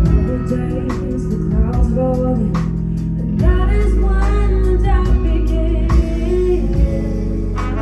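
A live band playing a slow pop song, with bass, sustained instruments and drum hits under a female singing voice.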